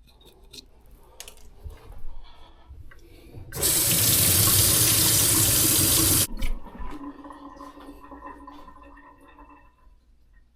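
Water rushing out hard for nearly three seconds, starting and stopping abruptly, followed by fainter clicks and a low hum that fades away.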